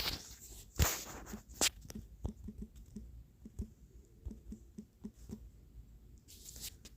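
Typing: irregular clicks and taps of keys, several a second at times, with a louder knock about a second in and a brief rustle near the end.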